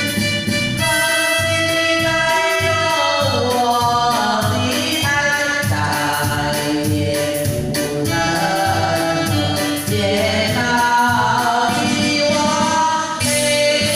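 A Mandarin pop song playing: sung vocal lines, with what sounds like backing voices, over band accompaniment with a steady beat.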